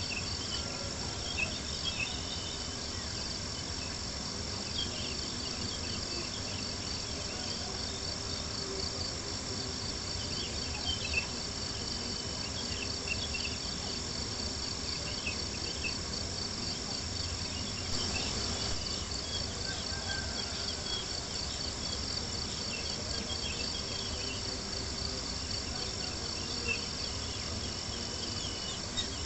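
Crickets chirping in a steady, continuous pulsing chorus, with an occasional faint pop from a crackling campfire.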